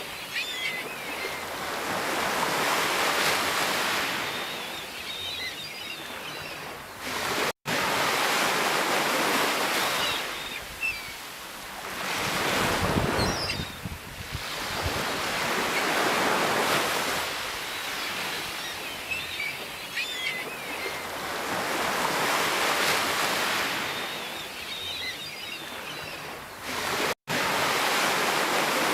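Sea waves breaking and washing in, the surf rising and falling away every three to five seconds, with two brief cuts to silence, about eight seconds in and near the end.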